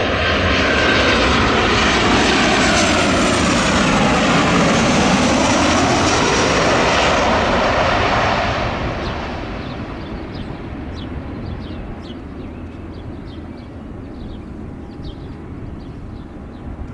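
Boeing P-8 Poseidon's twin CFM56 turbofans passing close on a landing approach: a loud jet rush with tones sweeping in pitch, dying away from about eight seconds in as the aircraft moves off.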